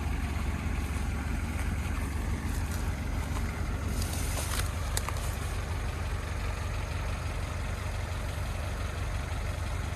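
Off-road SUV engine running steadily at low revs, a deep even rumble. About four seconds in there is a brief hiss, followed by a single sharp click.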